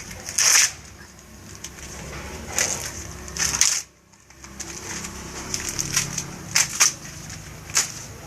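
Husks being torn off an ear of corn by hand: a series of short, dry ripping and crackling strokes.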